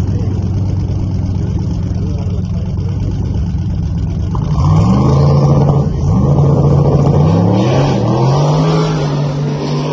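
A drag-racing car's engine running at a steady low note, then a car launching: the engine gets louder about four and a half seconds in and climbs in pitch several times over as it shifts up through the gears, holding a steady high note near the end.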